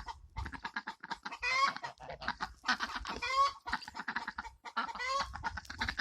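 Hen cackling over and over: runs of quick clucks, each ending in a drawn-out, falling squawk, about every two seconds. This is the laying cackle (egg song) a hen gives after laying an egg.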